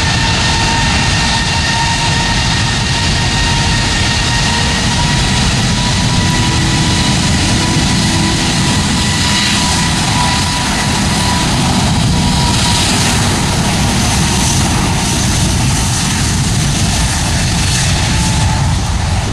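Jet airliner's engines running at high power close by: a loud, steady roar with a high whine held at one pitch.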